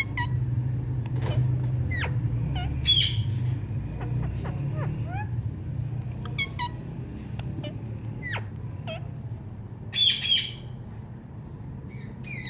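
Female Indian ringneck parakeet chirping: short, sharp gliding chirps at irregular intervals, with louder harsh squawks about three seconds in and a pair near ten seconds. A steady low hum runs underneath.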